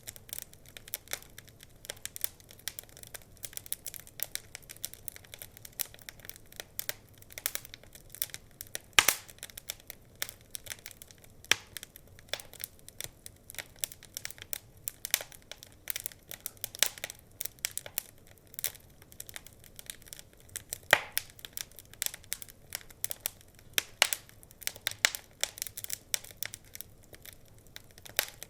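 Wood fire crackling in a fireplace: a dense, irregular run of small pops and snaps, with a few louder pops, about nine seconds in and again about twenty-one seconds in.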